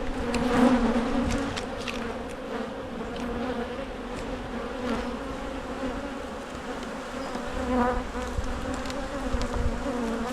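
A strong honeybee colony buzzing around an opened hive: a steady, wavering hum of many bees, with a few light clicks scattered through it.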